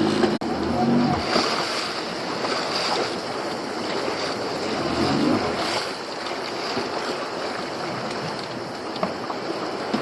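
Steady rush of wind and sea water around a small open fishing boat at sea.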